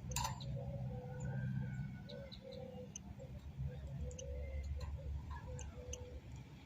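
European goldfinch singing: scattered short, high chirps and twitters. A sharp click comes just after the start, and a low rumble runs underneath.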